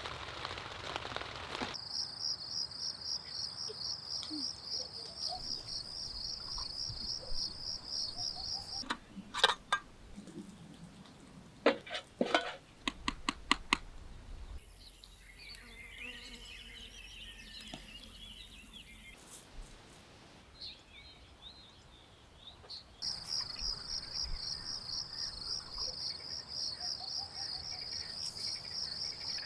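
Cricket chirping in a fast, even pulse that stops for several seconds midway and then resumes. Rain patter fades out just after the start, and a few sharp clicks or knocks sound in the middle gap.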